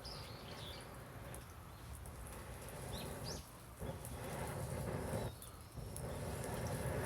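A bird chirps a few times over a rough, uneven rustling noise with scattered clicks, which drops out briefly twice.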